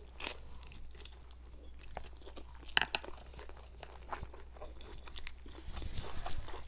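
A person chewing a bite of fried egg, with scattered small wet clicks and smacks from the mouth, one louder about three seconds in.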